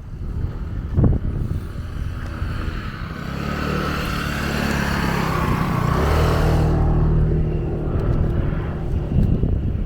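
A motor vehicle drives past, its engine hum and tyre hiss building over a few seconds and fading near the end. A single knock sounds about a second in.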